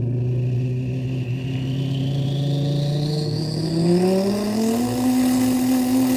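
A person imitating a turbo diesel truck with their mouth in one long breath: a low engine-like drone that climbs in pitch a little past halfway and then holds, with a thin high turbo-style whistle rising above it.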